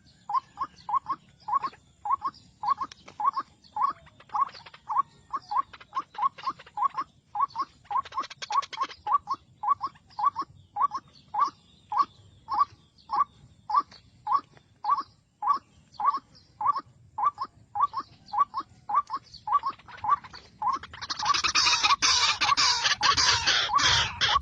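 White-breasted waterhen call: one short note repeated monotonously, about two a second. Near the end a loud rustling noise sets in over the calls.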